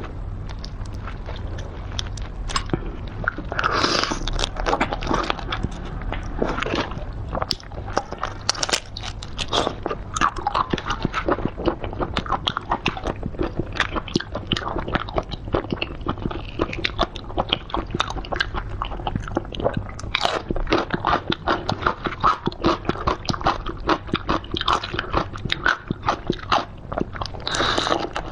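Close-miked eating: a person biting and chewing raw-marinated black tiger shrimp, with many quick, irregular crunches and wet crackles.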